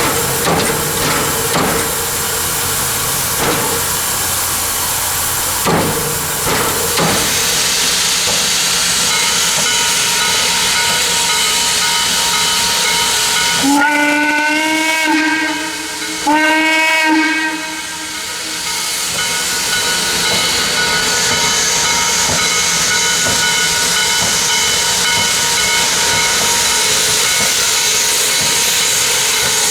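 Steam whistle of Chesapeake & Ohio 2-6-6-2 Mallet steam locomotive 1309 sounding two blasts about fourteen seconds in, the first a little longer than the second, over the locomotive's steady hissing steam. A few sharp knocks come in the first several seconds.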